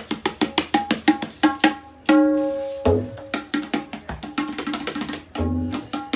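A pair of tablas played in quick strokes: the treble drum rings with a clear pitched tone, and deep bass strokes on the bayan come in a few times in the second half. One of the drums has just been repaired with a new skin, and the playing shows off its ringing resonance.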